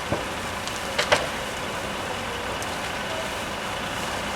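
Steady rushing, rumbling noise at a large building fire, with a sharp crack at the start and two louder sharp cracks about a second in.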